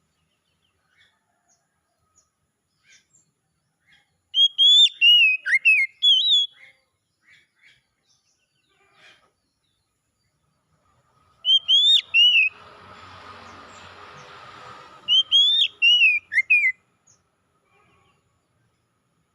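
Oriental magpie-robin singing: three bursts of loud, slurred whistled phrases that sweep up and down, with pauses between them. A stretch of hiss runs between the second and third bursts.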